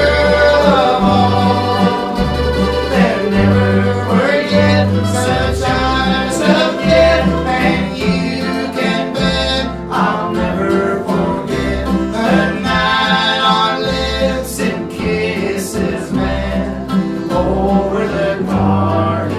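A bluegrass string band playing: fiddle and banjo over guitar, with a steady bass line changing note about once a second.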